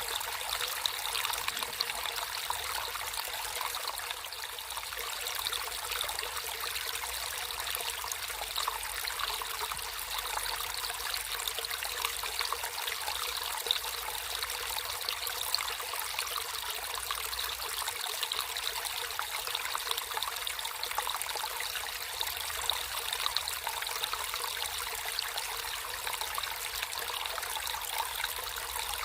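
Water running and trickling in a natural stream, a steady splashy babble with no pauses.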